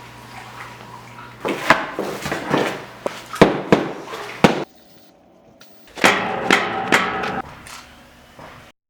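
Construction work: a rapid series of sharp knocks and clattering impacts, as of hammering and handling hard materials, in two busy spells, with a sudden cut between them and another at the end.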